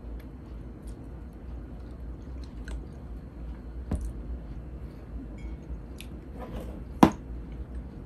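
A person chewing and eating food, with small wet mouth sounds and scattered light clicks over a steady low hum. A single sharp click stands out about seven seconds in.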